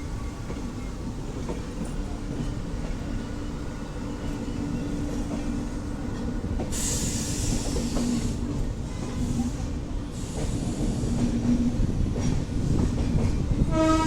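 Indian Railways express train, hauled by a WAP7 electric locomotive, rolling slowly into a station with a steady rumble of wheels and coaches. A burst of hiss comes about seven seconds in.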